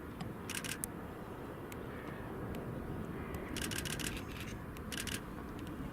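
Camera shutter firing in rapid bursts of several clicks: once about half a second in, again near four seconds and around five seconds, over a steady low rumble.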